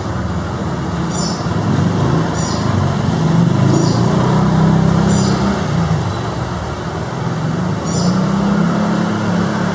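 Steady low rumble of engine or road-traffic noise that swells and eases slowly, with a short high chirp repeating about once a second.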